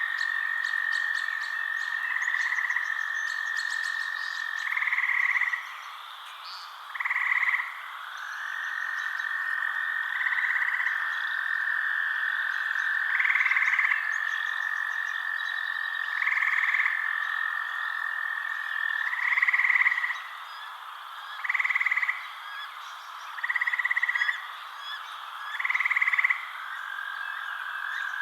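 Frogs calling at night: a long, steady trill that breaks off about six seconds in and starts again a couple of seconds later, with short, louder calls repeating every two to three seconds and faint, high chirps from insects or smaller frogs behind.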